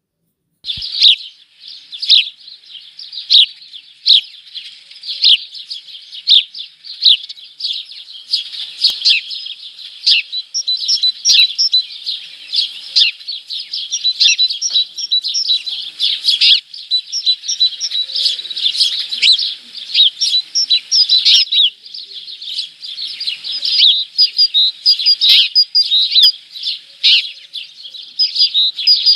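Small birds in a bird house chirping continuously: a dense run of quick, overlapping high chirps that starts after a brief pause at the very beginning.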